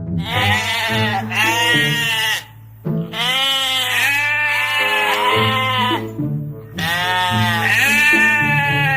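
Three long bleats from a farm animal, each arching up and down in pitch and lasting about two to three seconds, over background music with a low steady bass.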